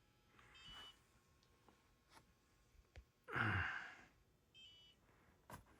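A person sighs once, about three seconds in. Faint short electronic beeps sound twice, the alert from RC gear left switched on too long.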